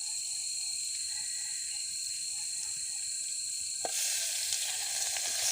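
Steady high insect chirring, then about four seconds in a click and a sizzle starting as seasoning goes into hot butter in a cooking pot.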